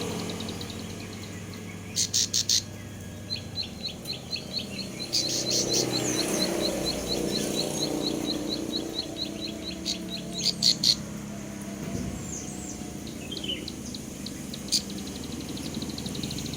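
Young cemblek sawah (a small field prinia-type songbird) calling while learning its 'ngebrem' song. It gives clusters of sharp high chips and a long run of rapid high ticking notes, about five a second, that stops a few seconds before the next burst of chips.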